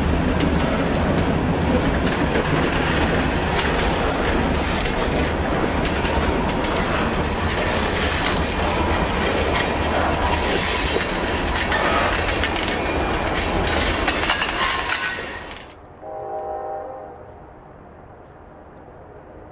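Covered hopper cars of a freight train rolling past at speed: a loud, steady rush of wheels on rail with rapid clicking over the joints, while the low drone of the departing SD40 diesel locomotives fades over the first few seconds. About 16 seconds in it cuts off suddenly to a much quieter hum with a brief faint tone.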